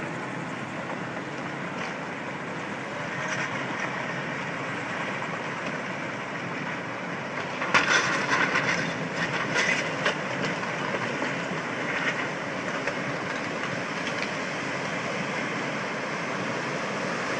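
Tsunami floodwater surging over land, a steady rushing noise, with a louder, rougher stretch about halfway through.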